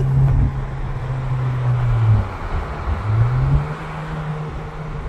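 Exhaust drone of a 2019 Honda Civic Sport's four-cylinder engine with the muffler deleted, a deep steady note. Its pitch falls about two seconds in as the revs drop, then climbs back and holds slightly higher.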